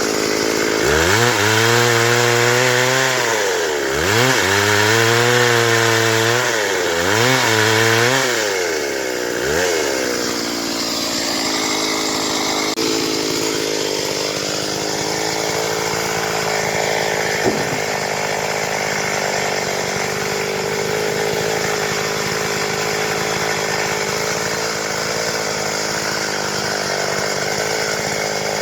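Stihl MS 382 two-stroke chainsaw revving hard four times, its pitch sagging and recovering each time, then settling to a steady idle about ten seconds in.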